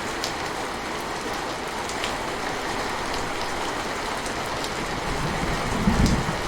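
Steady rain falling, a dense even hiss with scattered individual drop ticks. A brief low rumble swells near the end.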